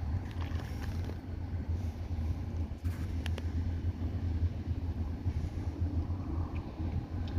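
Diesel locomotive engine running with a steady low rumble, with a couple of short sharp clicks about three seconds in.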